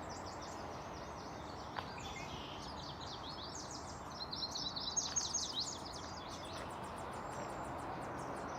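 Small birds singing in trees: many quick, high chirps, each falling in pitch, thickest about halfway through, over a steady background hiss.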